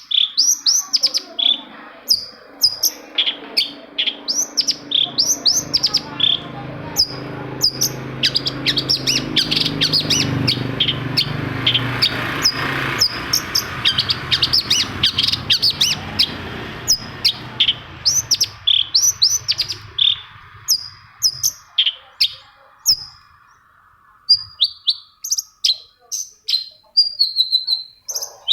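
Long-tailed shrike (cendet) singing a fast, unbroken run of sharp chirps and down-slurred notes. Through the middle a low rumble swells up and dies away again.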